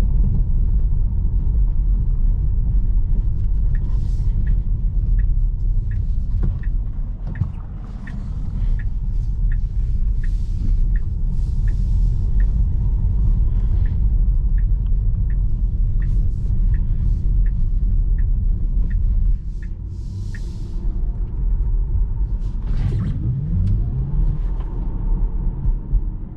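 Low rumble of road and tyre noise from an electric Tesla Model 3 Performance driving. For about fifteen seconds, from about four seconds in, the turn-signal indicator ticks evenly, roughly one and a half times a second.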